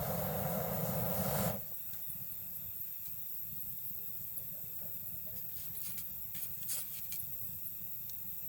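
A loud rushing hiss that cuts off suddenly about one and a half seconds in, then a quieter campfire with sparse, sharp wood crackles and pops, over a faint steady chirring of night insects.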